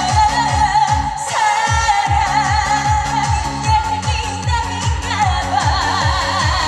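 Trot song performed live: a female voice sings long held notes with wide vibrato over a backing track with a steady, pulsing bass-drum beat.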